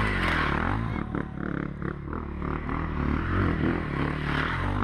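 Off-road vehicle engine running, its pitch rising and falling with the throttle, with clattering and scraping mixed in.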